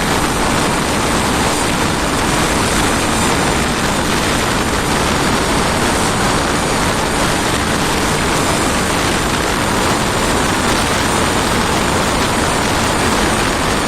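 An engine running steadily under test: a loud, even roar-like noise that stays constant throughout, with no clear firing beat or pitch change.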